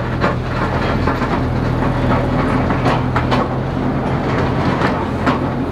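Open-air zoo train running, heard from aboard a car: a steady low engine hum with irregular clacks of the wheels and cars on the track.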